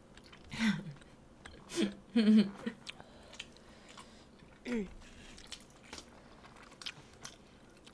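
Close-miked mouth sounds of eating: chewing with many small wet clicks and smacks. A few short falling vocal sounds break in, the loudest about two seconds in.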